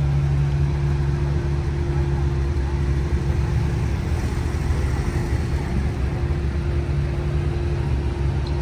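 A vehicle engine running steadily: a low hum with a constant tone above it, neither revving up nor dying away.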